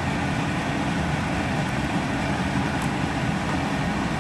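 A fan running with a steady, even rushing hum.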